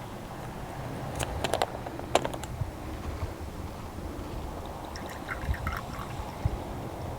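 Light clicks and clinks of tableware being handled at a meal: a quick cluster of sharp clicks about a second in, then a few soft clinks near the end, over a steady low outdoor rumble.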